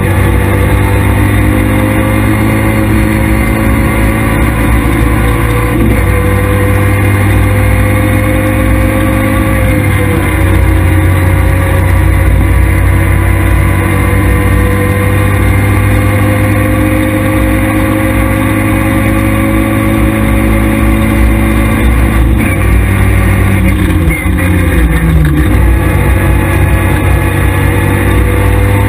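Škoda Felicia rally car's engine heard from inside the cabin, held hard at high revs with its pitch climbing slowly. The pitch dips briefly about ten seconds in, and falls and climbs back a few seconds before the end, as the car slows and accelerates again.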